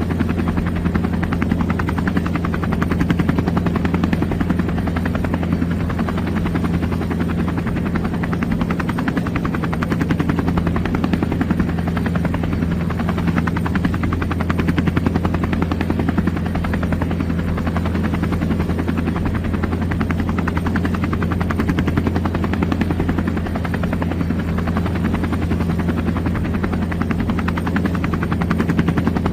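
Helicopter running steadily: a low hum with a rapid, even rotor beat, unchanging in level.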